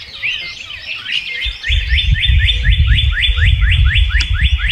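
Birds chirping; from about one and a half seconds in, one bird calls a fast, even run of short rising chirps, about six a second. A low rumble sits underneath.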